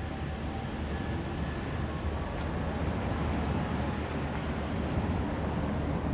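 Steady outdoor city street ambience: a continuous low rumble with an even hiss over it, and no single sound standing out.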